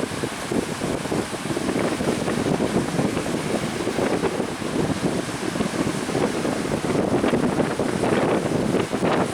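Strong wind buffeting the microphone over rushing, splashing water from a small fishermen's motorboat running through rough waves, with frequent gusts and splashes.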